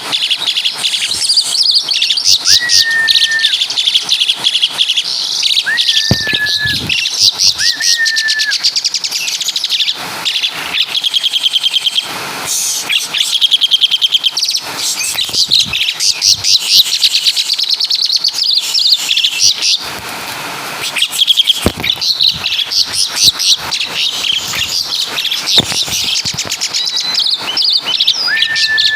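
Javan pied starling (jalak suren) singing loudly and almost without pause: rapid chattering trills and bursts of high notes, with a few short, lower whistled notes in the first eight seconds and again near the end. The song includes mimicry of the kapas tembak's call.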